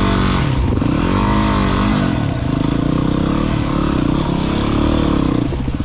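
Single-cylinder dirt bike engine revving hard under load on a steep climb. The pitch swings up and down for the first couple of seconds, holds high and steady, then drops away near the end.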